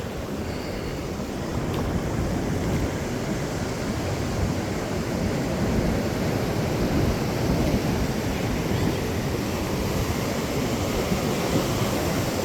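Pacific Ocean surf washing steadily onto the beach, with wind rushing across the microphone.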